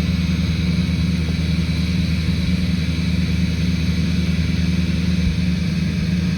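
2005 LLY Duramax 6.6L V8 turbodiesel idling steadily at its cold-start high idle, holding an even speed.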